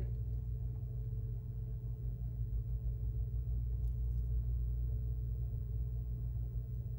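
Steady low rumble of background room noise with a faint steady hum, and one faint tick about four seconds in.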